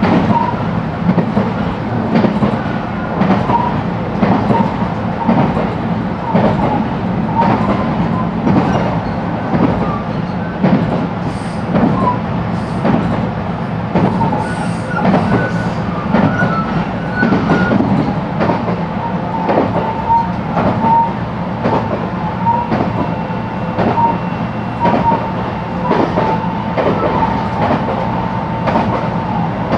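Running noise of a JR West 223 series electric train heard from inside the car: a steady low rumble with the wheels clicking over rail joints again and again. A thin steady high tone joins about two-thirds of the way in.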